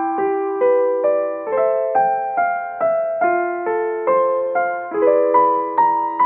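Slow solo piano music: single notes struck at an even pace, roughly two or three a second, each ringing and fading.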